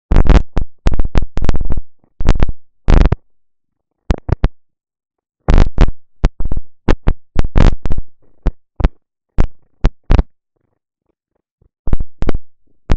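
Faulty microphone putting out harsh bursts of static, cutting in and out abruptly with stretches of dead silence between them.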